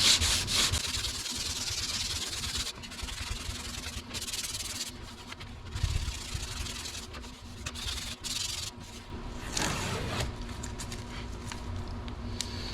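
Hand block sanding of primer on a car door panel: sandpaper on a flexible sanding block rubbing back and forth in strokes. The strokes are brisk at the start, softer through the middle, with a louder pass about ten seconds in.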